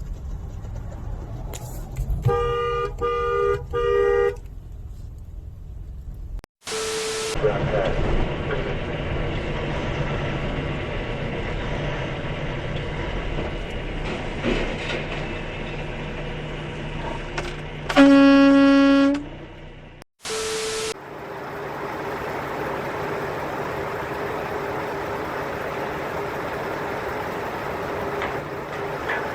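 Vehicle horn: three short honks a little over two seconds in, then one longer, lower blast about eighteen seconds in, over a steady rumbling background.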